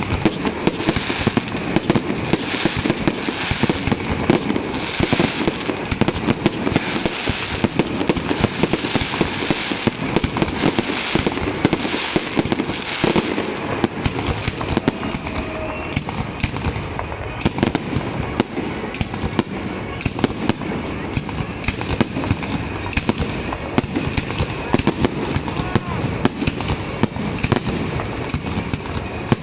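Fireworks display in a dense barrage: a continuous, rapid run of bangs from aerial shells bursting, with no pause.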